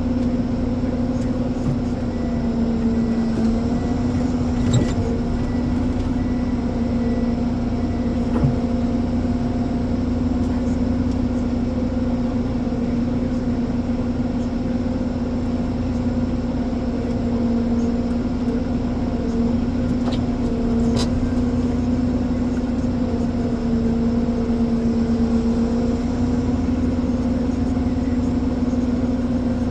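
Ponsse Elephant forwarder's diesel engine running steadily, its pitch sagging briefly now and then as if under load, with a few faint knocks.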